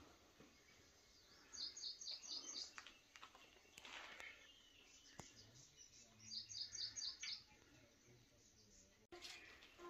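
A small bird calling twice: each call is a quick run of about six short, high notes, a few seconds apart.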